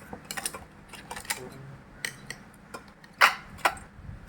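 Utensils clinking and tapping against serving dishes in a string of short, irregular clicks, with one sharper clink about three seconds in.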